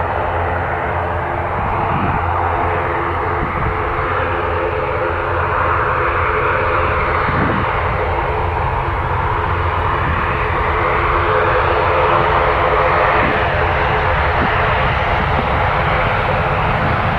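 Airliner's engines running steadily, with a rushing noise that swells and eases and grows slowly louder.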